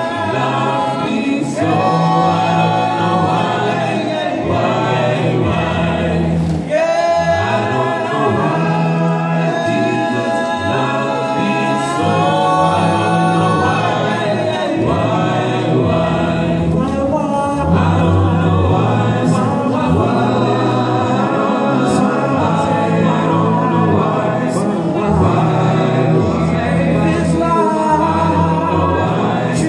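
A cappella vocal group singing a gospel song in layered harmony, with a low bass voice carrying the bottom line.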